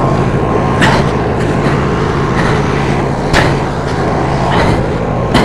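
Roper lawn tractor's 22 hp Briggs & Stratton V-twin engine running steadily under throttle, with a few sharp knocks about a second in, a little past three seconds and near the end.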